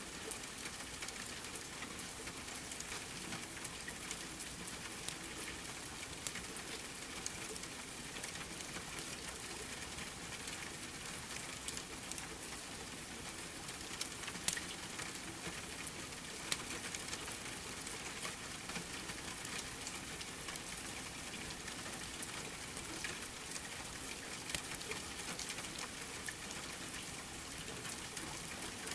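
Steady rain, with now and then a sharp crackle from a wood fire.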